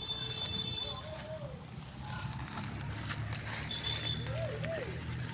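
Birds calling, with short rising-and-falling calls about a second in and twice more near the end, over a steady low rumble and a thin, steady high-pitched tone.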